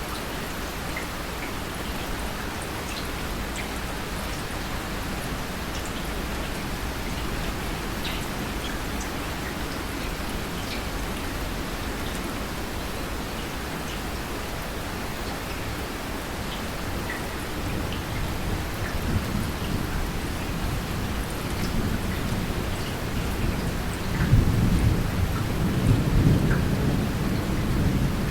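Steady rain falling, with scattered drops ticking. About two-thirds of the way in, a low roll of thunder builds and rumbles loudest near the end.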